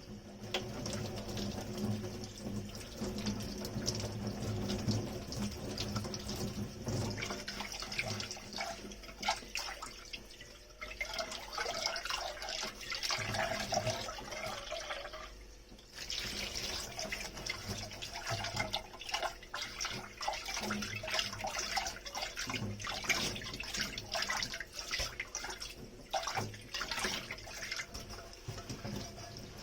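Dishes being washed under a running kitchen tap: the water runs steadily into the sink while dishes clink and clatter. The running water pauses briefly about halfway through.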